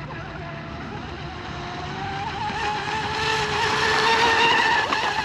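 RC hydroplane's water-cooled brushless electric motor on 6S whining at high throttle over the hiss of water spray. The whine climbs slightly in pitch and grows louder to a peak about four seconds in, then eases.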